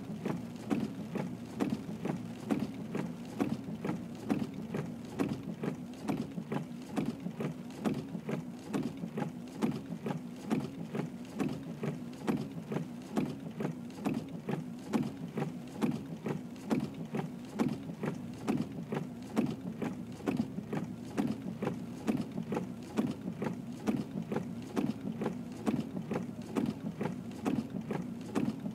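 A vehicle running steadily, with a low rhythmic pulse of about two to three beats a second throughout.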